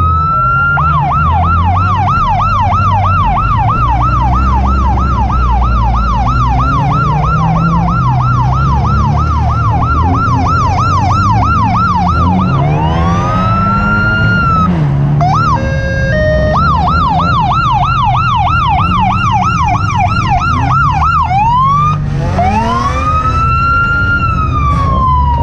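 Police car's electronic siren at close range, mostly on a fast yelp of about three sweeps a second. It switches to slow rising-and-falling wails and a brief stepped tone pattern around the middle, then to a final long wail. Car engines rumble low underneath.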